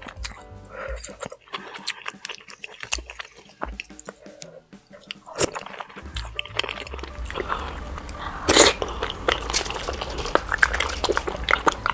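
Close-miked chewing and wet mouth sounds of someone eating fufu with soup, over quiet background music. The smacking and clicking grow denser and louder about halfway through, with one sharp loud crackle a little after that.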